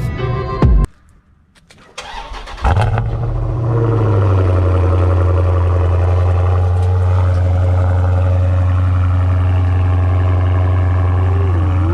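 Cold start of a Dodge Challenger's 392 (6.4-litre) HEMI V8: the starter cranks briefly about two seconds in, and the engine catches with a loud flare of revs. It then settles into a steady fast cold idle.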